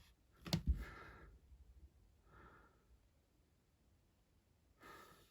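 A short knock about half a second in, then a few faint breaths.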